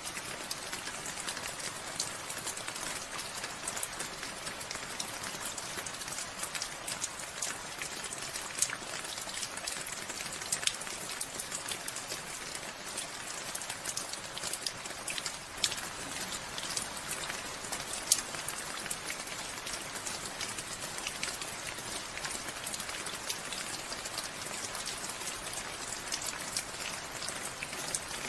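Steady rain falling, a constant hiss with many close, sharp drop impacts pattering on a surface, a few louder drips standing out now and then.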